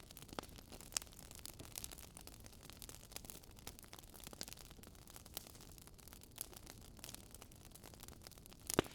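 Faint wood fire crackling, with irregular small pops over a low steady hiss and one sharper pop near the end.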